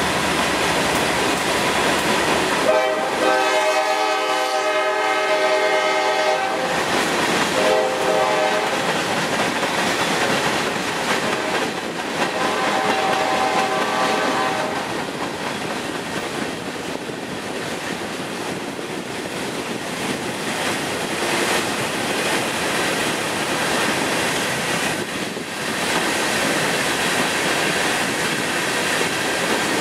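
Freight cars rolling past with a steady rumble and clatter of wheels on rail. A locomotive horn sounds over it three times: a long blast starting about three seconds in, a short one about eight seconds in, and a fainter longer one around twelve to fifteen seconds.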